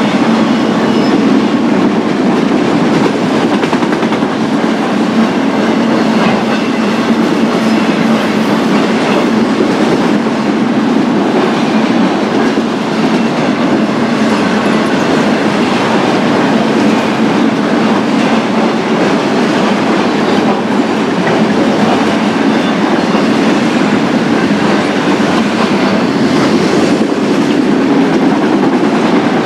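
BNSF freight train passing close by, its wheels running steadily on the rails.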